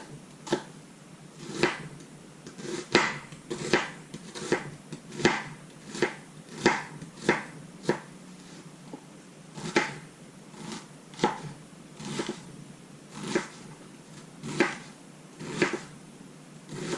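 Kitchen knife finely dicing an onion on a cutting board: sharp, separate chops at an uneven pace, about one every half second to a second.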